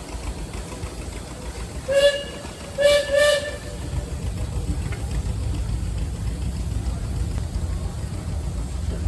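A steam whistle blows three short blasts: one, then two close together, each a single clear pitch. After them a steady low rumble of machinery runs on.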